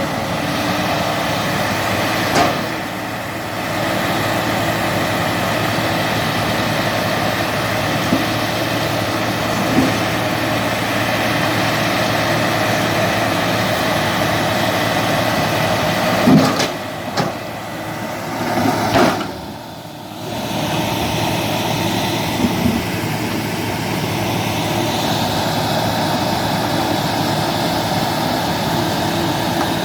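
Diesel engines of heavy earthmoving machines, an excavator and a crawler bulldozer, running steadily under work. A few sharp knocks come about two-thirds of the way through, and the engine noise dips briefly twice.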